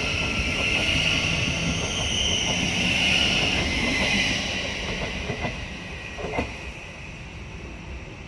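Class 717 electric multiple unit pulling out of the station: a steady rumble with a high hiss that fades after about four seconds as the train draws away, with a few sharp clicks near the end.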